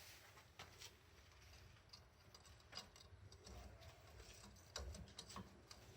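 Near silence with a few faint, scattered clicks and taps from hands and tools working on a rear drum brake.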